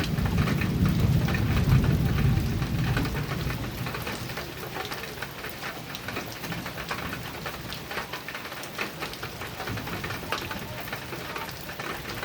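Heavy rain drumming on a metal roof, a dense patter of drops. A low thunder rumble swells over the first few seconds, then dies away.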